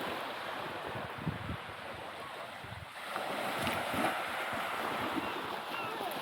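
Sea waves washing onto the beach, with a wave surging in louder about three seconds in, and some wind on the microphone.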